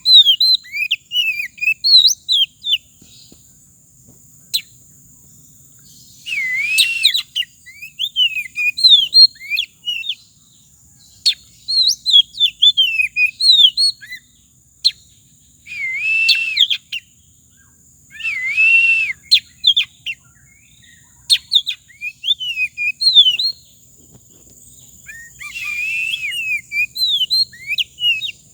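A songbird singing in bursts of quick, whistled chirping notes, broken every few seconds by a longer, rougher phrase that dips and rises.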